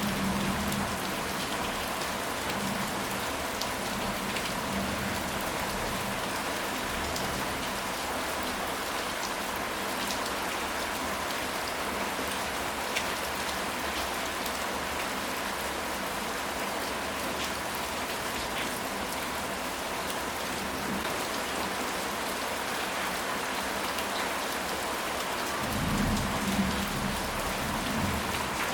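Steady, heavy rain falling, an even hiss with scattered drop ticks. A low rumble swells briefly at the start and again near the end.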